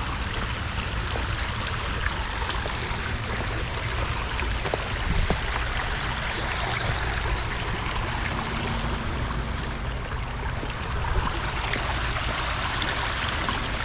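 Steady rushing of a flowing creek, with a few faint light clicks over it.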